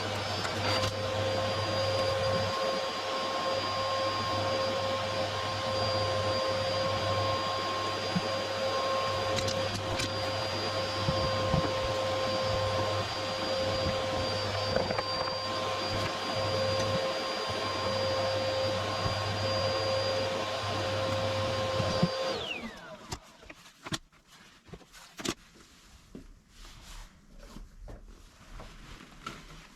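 Vacuum cleaner running with a steady whine, switched off about three-quarters of the way through, its motor winding down in pitch. A few light knocks and handling sounds follow.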